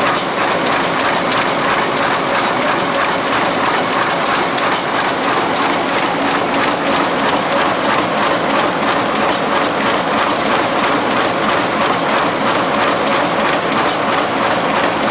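Best Chen BC-200 automatic book thread sewing machine running: a steady, fast mechanical clatter over a constant hum.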